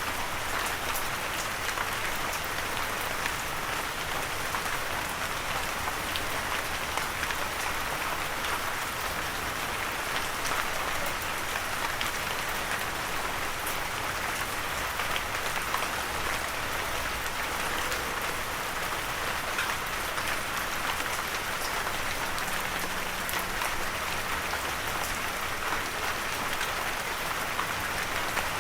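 Steady gentle rain falling, a dense even hiss with many small drop ticks and no thunder.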